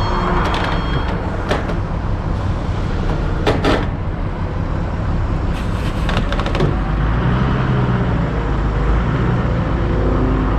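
Flatbed straight truck driving, a steady low engine and road rumble, with a few short clicks or rattles over it.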